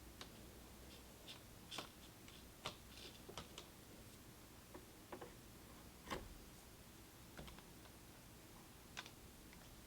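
Faint, scattered clicks and light taps from small computer parts being handled and fitted, with a soft knock about six seconds in, over quiet room tone.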